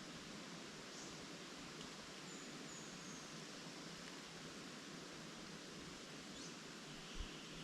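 Steady rustle of tree leaves in the wind with a few faint, brief bird chirps. A low thump near the end.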